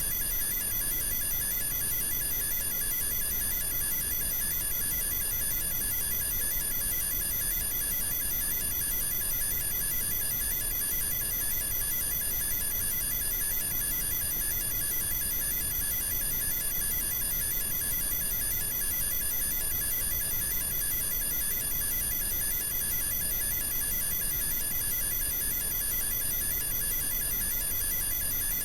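Steady electronic signal: several high tones pulsing rapidly over a low noisy hum, unchanging in level.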